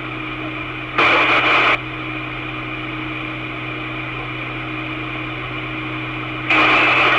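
Two-way radio channel with no voice: a steady hum, broken by two loud bursts of hiss, one about a second in lasting under a second and a longer one starting near the end.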